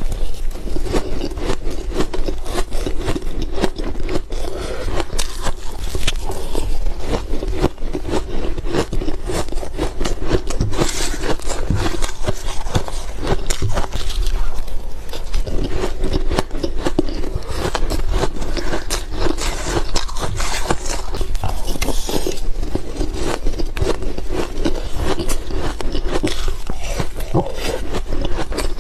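Close-miked biting and chewing of powdery, crunchy frozen ice: a dense, continuous crunching made of many quick small cracks.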